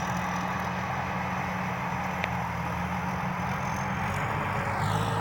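Turbocharged Hino J2 diesel engine of a rice combine harvester running steadily, with a thin high turbo whistle over the low engine note. Near the end the whistle sweeps down in pitch as the engine note changes.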